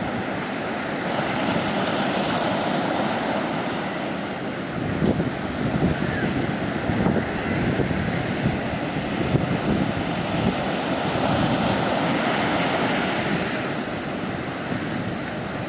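Sea waves breaking and washing up a beach: a continuous rushing wash that swells and eases every few seconds.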